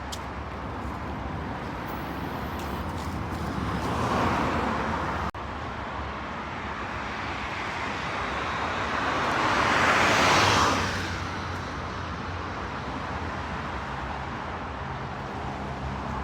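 Road traffic on a city street: a steady low hum of traffic, with one vehicle passing about four seconds in that cuts off suddenly, and a louder one passing about ten seconds in.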